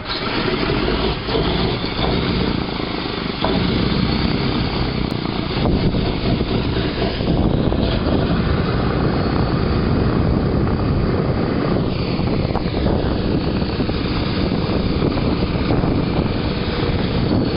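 Boeing B-17 bomber's Wright R-1820 Cyclone radial piston engines running, a steady propeller-driven drone that gets louder about three and a half seconds in.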